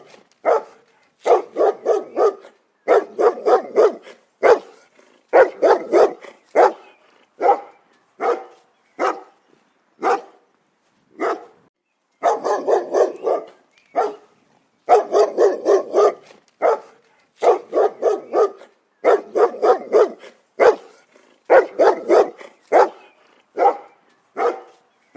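A dog barking loudly in rapid runs of several barks with short pauses between them, over and over.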